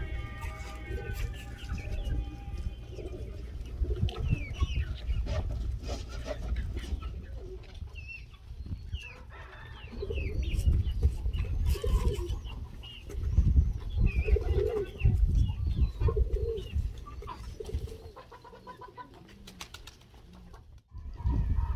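Domestic pigeons cooing, with other short bird calls mixed in, over a heavy low rumble of wind on the microphone.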